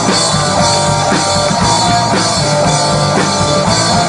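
Live rock band with drum kit, guitar and bass playing a steady instrumental vamp.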